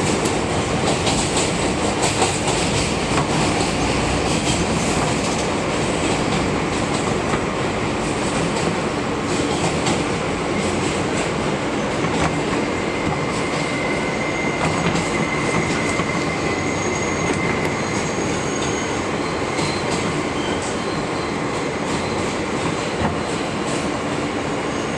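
R160B subway train running on its run, heard from the cab: a steady rumble of wheels on rail with the clickety-clack of rail joints and scattered sharp clicks. About halfway through, a steady high whine comes in for several seconds and then fades.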